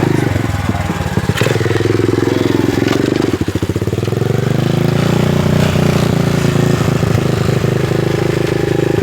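Dirt bike engine running close by, its revs rising and falling. The revs drop about three and a half seconds in, then climb again and hold fairly steady.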